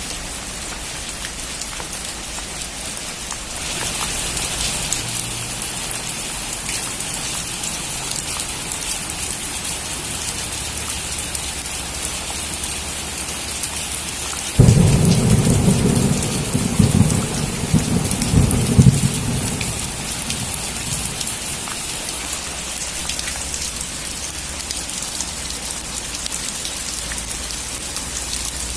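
Steady heavy rain falling, growing heavier a few seconds in. About halfway through, a sudden loud clap of thunder breaks into a low rolling rumble for several seconds, then fades back under the rain.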